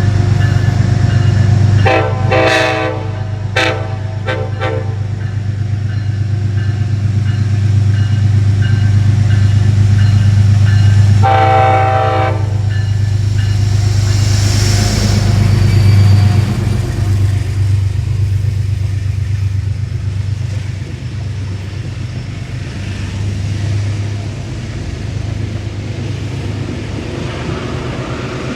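P32AC-DM locomotive pulling out with its engine running loud and steady. Its horn sounds several blasts in the first few seconds, then one longer blast about eleven seconds in. A brief hiss comes midway, and the train sound fades as it moves off.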